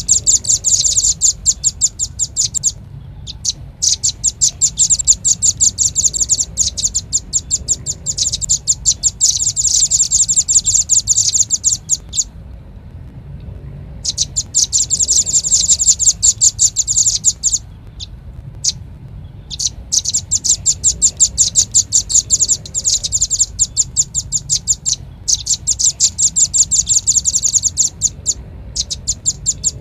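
Velvet-fronted nuthatch calls from a recorded lure track: fast runs of sharp, high chips, several a second, in bouts of a few seconds broken by short pauses, over a faint low hum.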